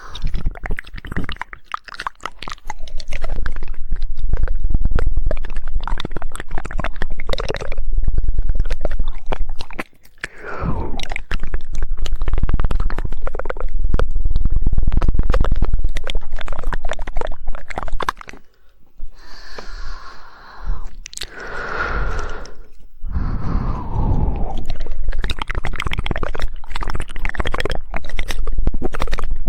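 Close-miked ASMR mouth sounds: rapid, wet tongue clicking in the 'woodpecker' style, mixed with other wet mouth noises. The clicking runs densely, with brief breaks about ten and eighteen seconds in.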